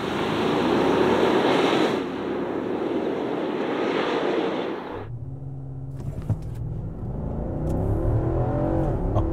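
Nissan Patrol's naturally aspirated 5.6-litre V8 at full throttle in an acceleration run. A loud rushing noise fills the first five seconds, then the engine note comes through clearly and climbs in pitch as the revs rise.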